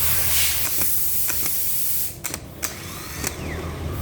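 A loud hiss lasting about two seconds that cuts off sharply, followed by a few sharp clicks and a faint whine that glides up and down.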